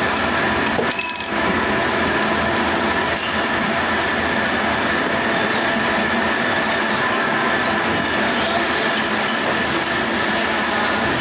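Manual metal lathe running steadily, a dense mechanical noise with a thin whine held throughout, and a brief metallic clink about a second in.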